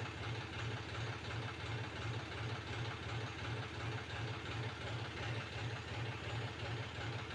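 A low engine idling at a steady pace, its hum pulsing about twice a second.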